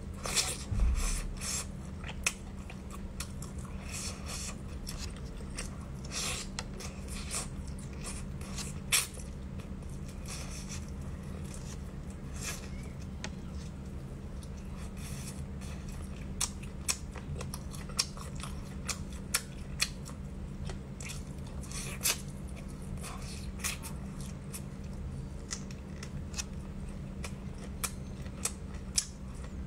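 Close-miked chewing and biting of braised meat, a string of short wet mouth clicks and smacks, with a louder knock about a second in. A steady low hum runs underneath.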